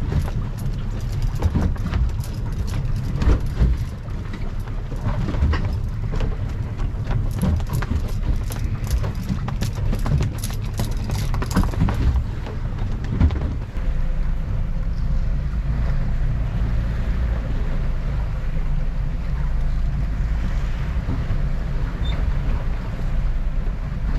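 Boat engine running with a steady low drone, with sharp knocks and clatter over the first half that give way to an even drone after about fourteen seconds.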